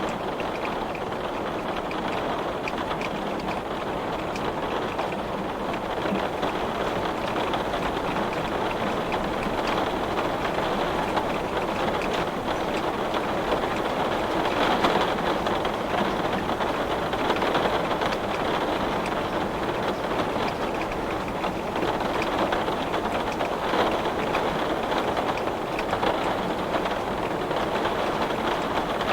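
Heavy rain drumming steadily on window glass, a dense patter of drops with slight swells in strength.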